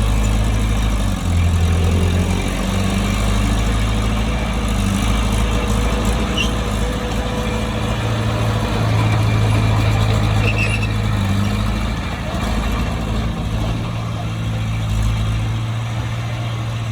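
Bulldozer's diesel engine running steadily, its pitch stepping up and down a few times as the engine speed changes.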